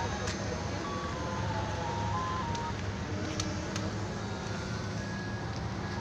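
Steady low vehicle rumble with a hiss, with a few faint short tones and clicks over it.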